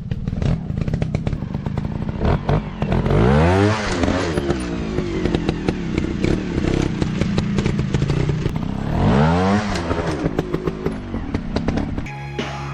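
Dirt bike engine running off-road, revving up and back down twice, with many sharp clicks and clatter over it. Near the end it cuts to a steady hum.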